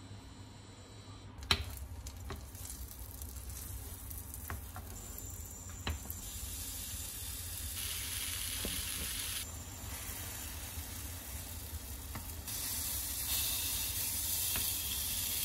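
Egg-soaked bread (French toast) and halved bananas sizzling as they fry in a pan, the sizzle growing louder in steps. One sharp knock about a second and a half in, and a few light clicks of wooden utensils against the pan.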